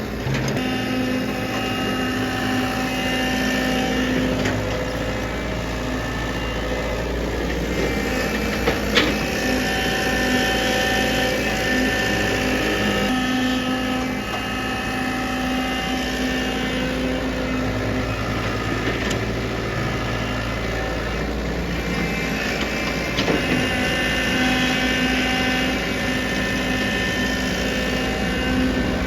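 JCB 3DX backhoe loader's diesel engine running steadily, its pitch rising and falling several times as the machine works, with a couple of sharp knocks about nine seconds in.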